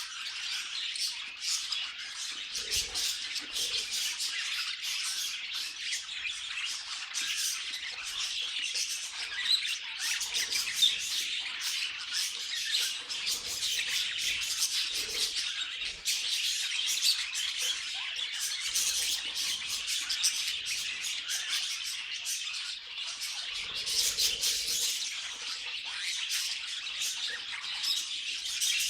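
Several budgerigars chattering and warbling together without a break, a dense stream of chirps, squawks and twittering.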